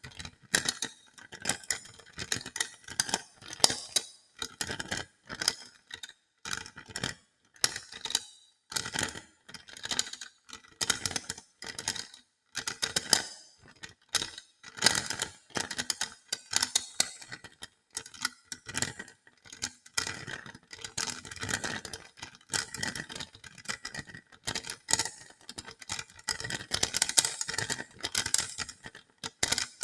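Hodo balls clicking and clattering against each other as they are rolled and handled, in quick clusters of knocks with short pauses between, with a light metallic ring.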